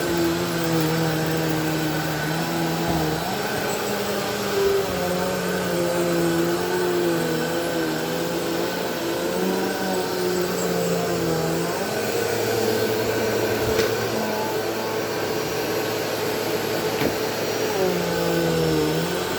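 Bissell PowerForce Helix Turbo Rewind upright vacuum cleaner running continuously, its motor hum steady but wavering in pitch, dipping briefly about two-thirds of the way in and again near the end.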